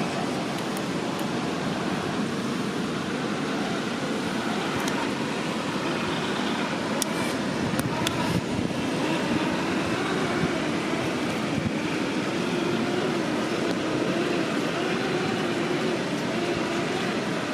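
Traxxas TRX-4 Bronco RC crawler's electric motor and geared drivetrain whining, the pitch wavering as the throttle changes, with a few sharp clicks around the middle.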